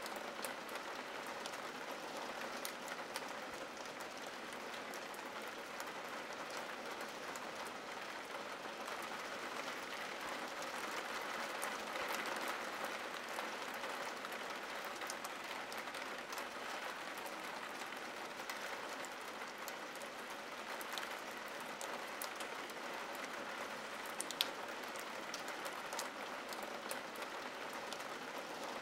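Steady rain on window glass: an even hiss with many individual drops ticking, and one sharper drop tick near the end.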